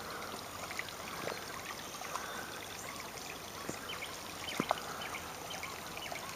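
Creek water trickling and flowing over granite rock, a steady rushing hiss with scattered small clicks and plinks.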